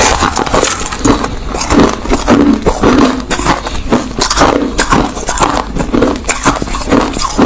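Crushed ice being chewed close to the microphone: steady, rapid crunching and crackling of ice between the teeth.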